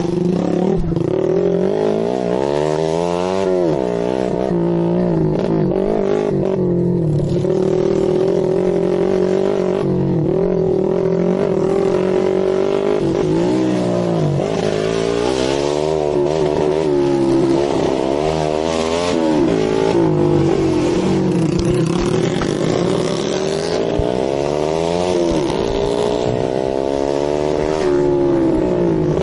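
Dirt bike engines running, their pitch rising and falling every couple of seconds as the throttle is worked, over a steady engine note.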